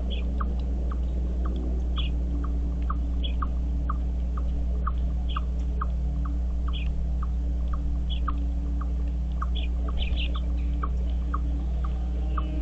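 Birds calling: a steady run of short, evenly spaced notes about three a second, with higher chirps about once a second and a quick cluster of them near the end, over a steady low hum.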